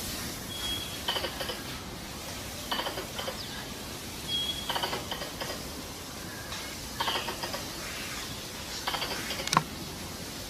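Squirrel chattering lure calls: short bursts of rapid, ratchet-like clicking chatter every one to two seconds, with a brief high whistle twice and a single sharp click near the end.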